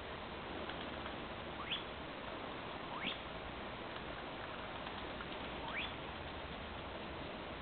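Three short, squeaky bird calls, each rising quickly in pitch, a second or more apart, over a steady hiss.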